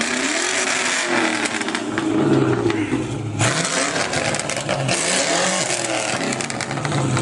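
Car engine running and revving, its pitch rising and falling, with a rush of hiss in the middle.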